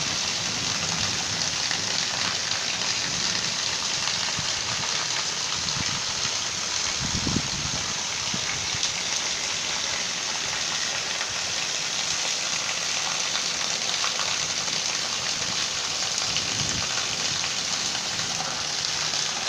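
Heavy rain falling steadily, a dense even hiss of drops on surfaces, with a brief low rumble about seven seconds in.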